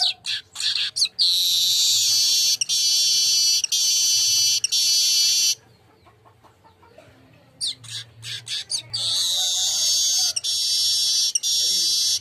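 Golden-headed manyar weaver singing. Each bout opens with a few quick chirps and goes into a long, high, buzzing wheeze broken into stretches of about a second. There are two such bouts, with a pause of about two seconds between them.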